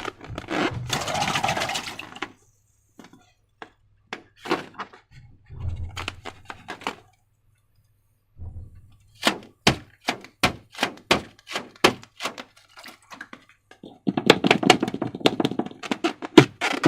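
Sticky slime being handled, giving irregular wet clicks and squelches: a run of crisp clicks about two a second, then a denser patch of squishing near the end.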